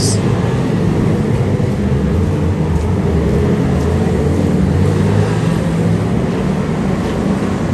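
2-litre saloon stock cars racing, their engines making a steady, continuous drone of several motors together.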